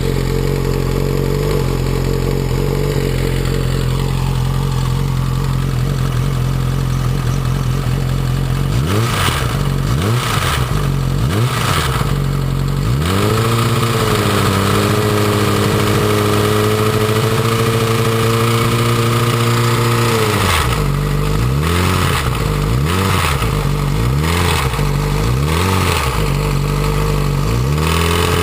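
Yamaha R6 inline-four engine idling with its timing cover off, then blipped a few times, held at higher revs for several seconds, and blipped again about six times in quick succession. The cam chain rattles at the higher revs, which the owner traced to a faulty cam chain tensioner.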